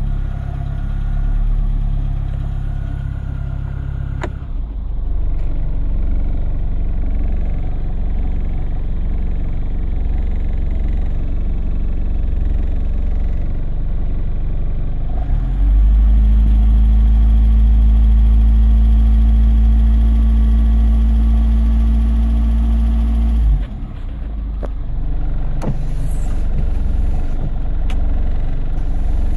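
Mk4 Ford Escort 1.3 engine idling steadily. About sixteen seconds in, a louder, steady low hum starts suddenly and cuts off abruptly about eight seconds later. A few sharp clicks follow near the end.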